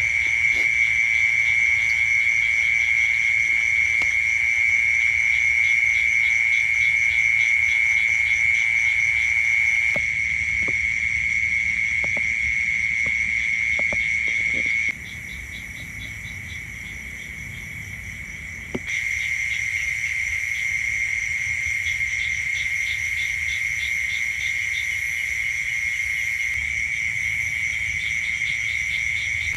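Chorus of crickets and other night insects: a steady, shrill high-pitched trill with faster pulsing calls above it. It turns abruptly quieter for a few seconds in the middle.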